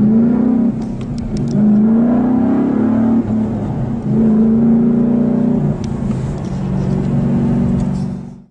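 Ford Mustang Boss 302's 5.0-litre V8 accelerating hard through the gears. The pitch climbs and then drops at each upshift, three times.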